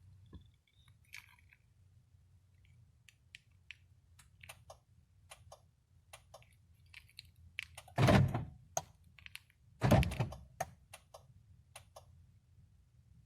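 A run of faint light clicks and taps, then two loud thunks about two seconds apart.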